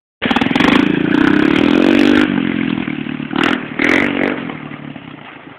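Pit bike engine revving, its pitch climbing for about two seconds, then easing off with a brief second rev and growing fainter toward the end.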